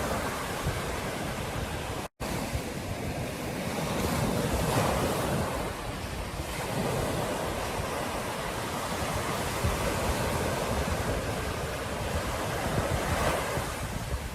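Ocean surf washing on a beach, a steady rush that swells and eases, with wind buffeting the microphone. The sound cuts out for an instant about two seconds in.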